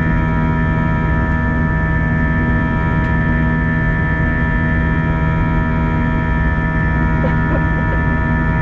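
Cabin noise inside an Airbus A321 in the climb after takeoff: a steady drone of engines and airflow carrying several steady hum tones.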